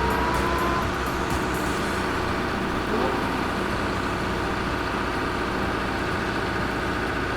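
Heavy vehicle engine running steadily, with a rising whine that ends about a second in.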